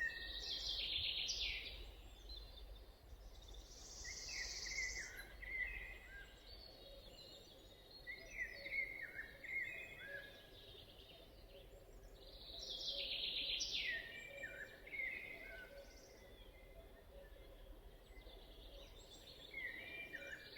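Several songbirds singing in a forest. One loud song phrase comes near the start, again about two-thirds of the way through and again at the end, with shorter, quieter phrases from other birds in between, over a faint low rumble.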